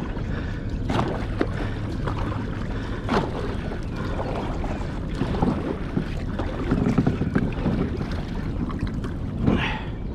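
A kayak moving on a river, with wind buffeting the microphone over water noise and scattered knocks on the hull.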